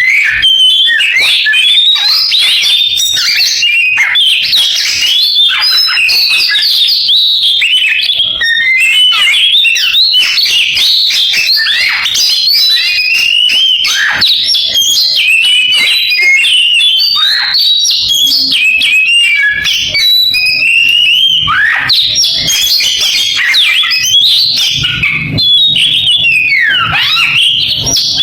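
Oriental magpie-robin (kacer) singing a long, rapid, varied song of chirps, trills and sweeping whistles in canary-like phrases, with only brief pauses.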